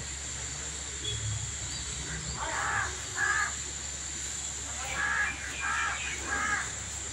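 A bird calling in short, repeated calls: two about two and a half seconds in, then three more in quick succession from about five seconds in, over a steady background hiss and hum.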